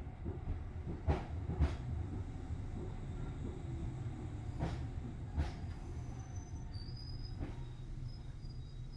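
Tobu Series 6050 electric train running, heard inside the car: a steady low rumble with sharp clacks as the wheels cross rail joints, several of them in pairs. A faint high-pitched wheel squeal comes in over the last few seconds.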